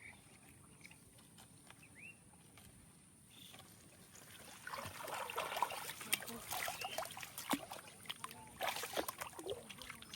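Water splashing and sloshing with many quick clicks and drips. It starts about halfway through after a quieter stretch and keeps going to the end.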